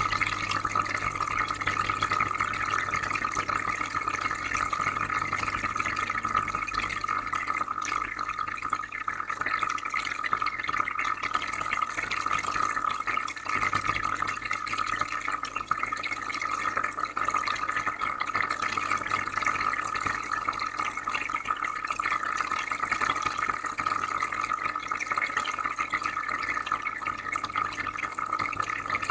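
Shrimp aquarium filter running: steady bubbling and trickling water over a low, even hum.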